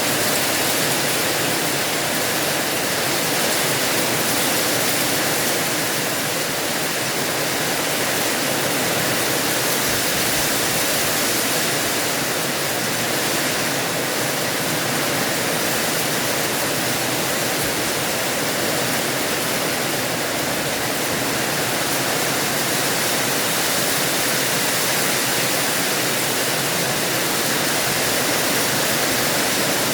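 Steady heavy rainfall: a dense, even hiss that holds level throughout without letting up.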